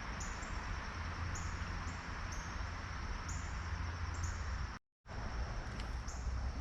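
Creek ambience: a steady rush of running water with short high chirps repeating every half second or so. The sound drops out completely for a moment about five seconds in.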